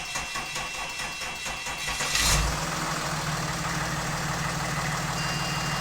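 Mercedes CLS 320 CDI's V6 diesel engine cranking on the starter for about two seconds, catching with a brief loud rev, then settling into a steady idle.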